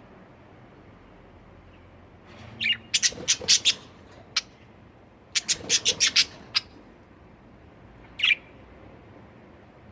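Pet budgerigars giving two quick bursts of harsh squawks, several sharp calls each, followed by a single shorter chirp near the end.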